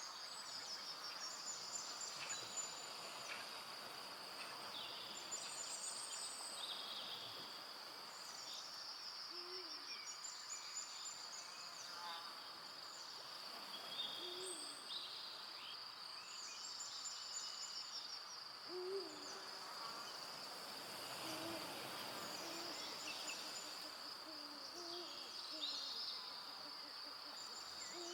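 Forest soundscape: a steady high insect trill runs throughout while songbirds chirp on and off. An owl gives short, low hoots several times, more often in the second half.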